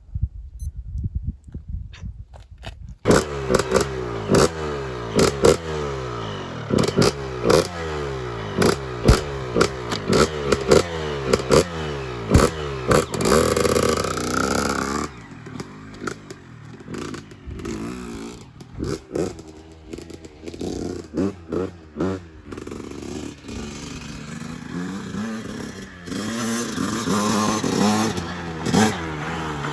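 Honda CR125R two-stroke single-cylinder dirt bike engine. About three seconds in it opens up and revs hard through the gears, its pitch climbing and falling back again and again. Sharp knocks and rattles from the bike come through over it. About halfway it drops to lower, uneven throttle bursts, then builds up again near the end.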